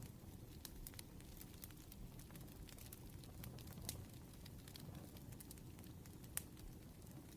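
Faint crackling of a burning wood fire: a steady scatter of small snaps and ticks over a low rumble, with a couple of sharper pops about four and six seconds in.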